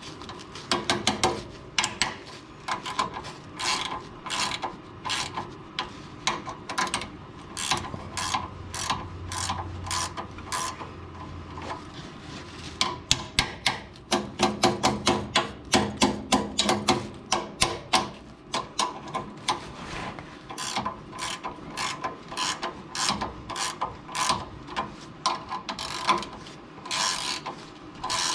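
Hand ratchet wrench clicking in runs as the nuts of a 2.5 inch exhaust clamp are tightened, with short pauses between strokes.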